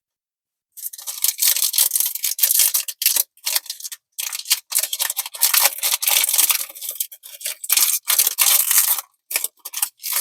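Foil Pokémon booster pack wrapper crinkling and tearing as it is opened, starting about a second in, in crackling spells with short pauses.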